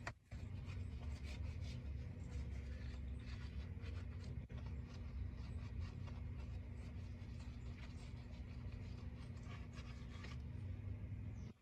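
Cleaning sounds: irregular scratchy strokes of a surface being scrubbed or wiped, over a steady low hum.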